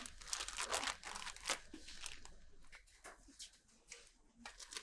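Plastic bag crinkling and rustling in irregular crackles as it is handled.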